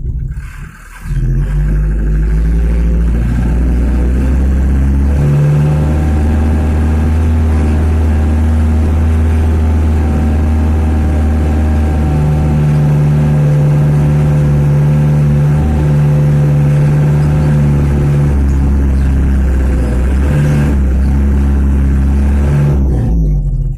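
Mitsubishi Canter light truck's diesel engine running loud and steady under load as the truck drives, its note shifting up and down a few times as the revs change.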